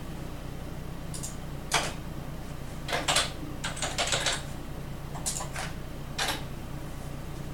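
Computer keyboard being typed on in short irregular bursts of key clicks, over a steady low hum.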